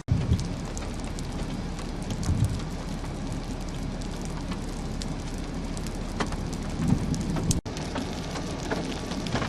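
Steady rain with scattered individual drops ticking on the chase vehicle, during a supercell thunderstorm. The sound cuts out for an instant about three-quarters of the way through.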